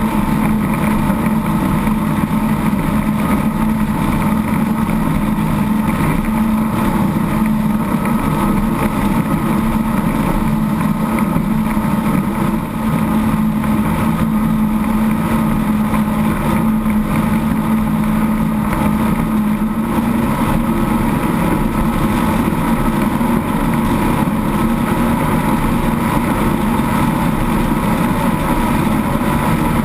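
Engines of a 36-foot Skater powerboat running steadily under way, a constant drone with rushing wind and water noise over it.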